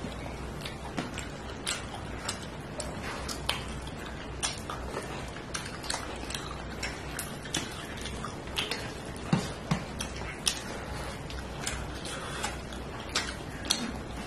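A person eating rice and fish curry close to the microphone: irregular wet clicks of chewing and lip smacks, a few a second, over a low steady hum.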